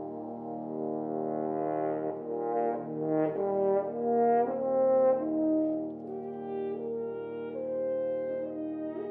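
Slow ensemble music in a brass-like tone, several instruments holding chords while one line moves from note to note, swelling louder in the middle and settling back.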